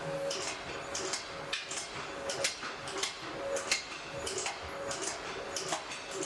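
Blacksmith's forge fire burning with a steady hiss and irregular crackles and pops.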